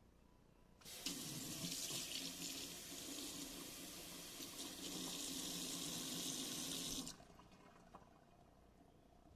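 Kitchen sink faucet running water into the sink, turned on about a second in and shut off abruptly about six seconds later.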